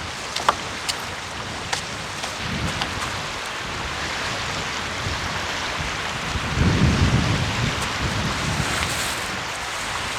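Heavy rain falling steadily, with a few sharp drip taps in the first couple of seconds. A low rumble swells twice, loudest about six to seven seconds in.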